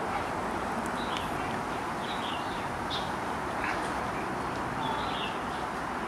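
Small birds giving short, high chirps about once a second over a steady background din of low rumble and hiss.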